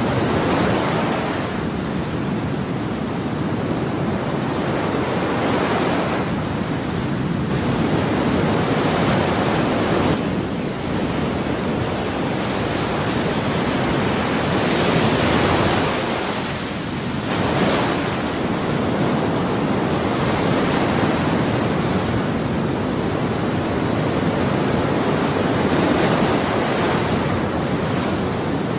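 Ocean waves breaking and washing on a shore in a continuous rushing hiss, with a brighter surge every few seconds as a wave breaks.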